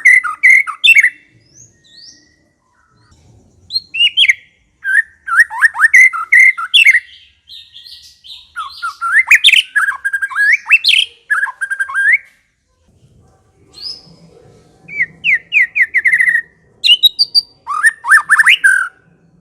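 White-rumped shama (murai batu) singing in full voice: bursts of quick, sweeping, fast-repeated notes, each burst one to four seconds long, with short pauses between.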